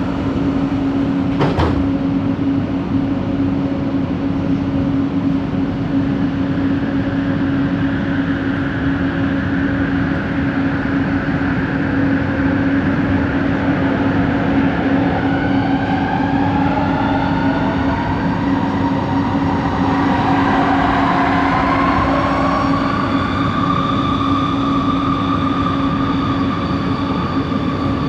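Inside a coach of a light-rail metro train while it runs: rumble with a strong, steady, humming tone, the odd motor noise coming from coach 4. About halfway through, several whines from the traction motors rise and bend in pitch as the train changes speed. There is a sharp click near the start.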